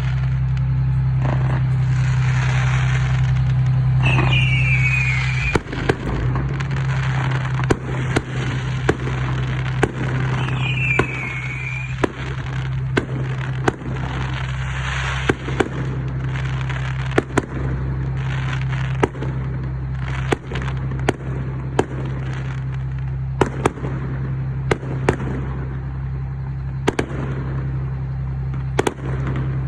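Fireworks going off: a steady string of sharp bangs and crackling, denser and noisier for the first five seconds, with three short falling whistles in the first dozen seconds. A steady low hum runs underneath.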